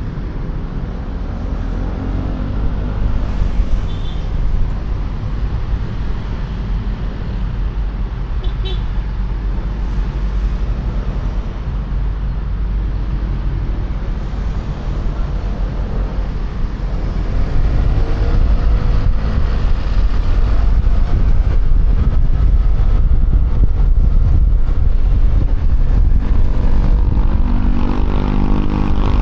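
Wind rushing over a helmet-mounted microphone on a moving QJMotor Fortress 160 scooter, mixed with its engine and road traffic; the rush grows louder about two-thirds of the way through. Two brief high beeps come in the first third, and near the end the engine note rises as the scooter accelerates.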